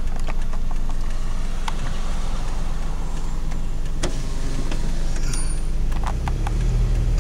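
Car driving, heard from inside the cabin: a steady low rumble of engine and road noise, with a few light clicks and rattles.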